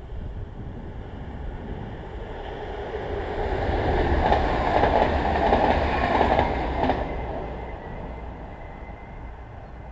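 Electric passenger train passing on the rails. It grows louder to a peak about four to seven seconds in, with a few sharp wheel clicks over the rail joints, then fades away.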